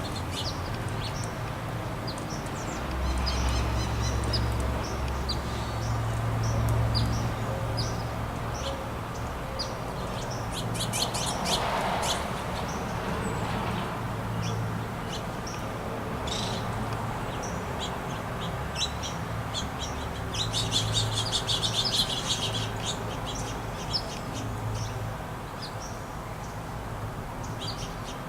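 Small songbirds at a feeder chirping, with many short high calls and two bursts of rapid twittering, the first about ten seconds in and the second about twenty seconds in. A low rumble runs underneath.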